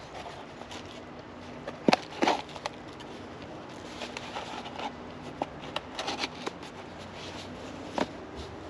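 Hands handling packaging and parts: scattered clicks and knocks with brief crinkling, the loudest knocks about 2 s in and a busier run of clicks a little past the middle, over a faint steady hum.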